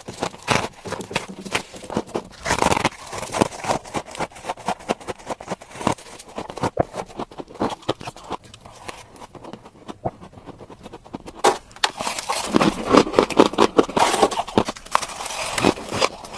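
Close-up crunching of freezer frost being bitten and chewed: a rapid, uneven run of crisp crunches and scrapes, thinner in the middle and densest near the end.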